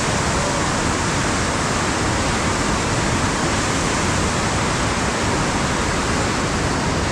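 Whitewater rapids rushing in a steady, unbroken roar of water.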